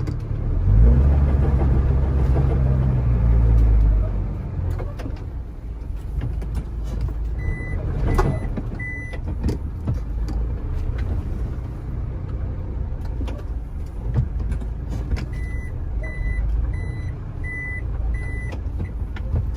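A heavy truck's engine is revved for the first few seconds, then runs steadily. A reversing beeper sounds in two short runs of high beeps, three around the middle and five near the end.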